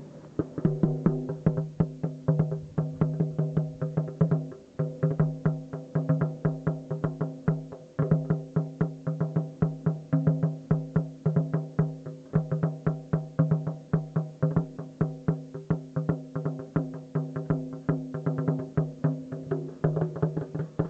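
Drumming: a run of quick strikes, about four a second, on a drum with a ringing, tuned tone, breaking off briefly twice.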